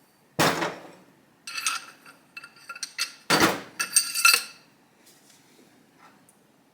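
Metal tools and parts knocking and clinking: two sharp knocks about three seconds apart, each followed by a short run of ringing clinks.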